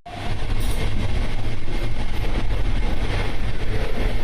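Passenger train running along the track: a steady, loud rumble with a rushing hiss of wheel and rail noise heard from on board.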